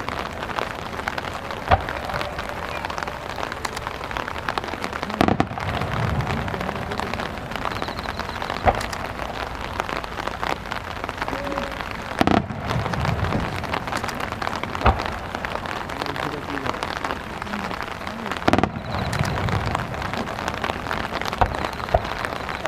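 Steady rain falling on surfaces, with a handful of sharp, short bangs scattered through.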